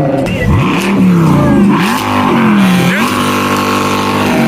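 Car engine revving hard, its pitch climbing and dropping several times, then holding at steady high revs for a second or so near the end.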